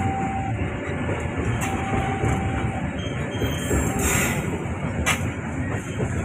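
Train passing close by: a continuous rumble of steel wheels on the rails, with a faint squeal of wheels on the track, a brief hiss about four seconds in and a sharp click about a second later.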